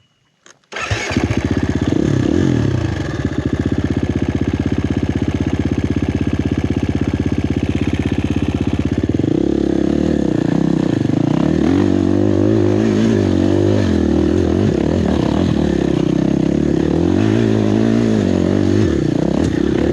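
Four-stroke enduro dirt bike engine under load on a steep hill climb. It cuts in suddenly about a second in and holds a steady note at first, then the revs rise and fall repeatedly from about nine seconds in as the rider works the throttle.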